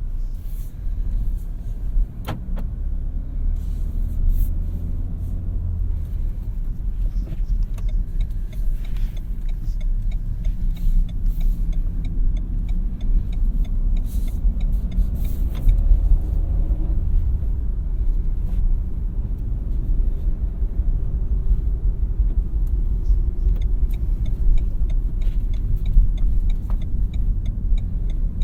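Renault Mégane TCe 100 on the move: its 1.2-litre four-cylinder engine and tyre and road noise make a steady low rumble. A single sharp click comes about two seconds in.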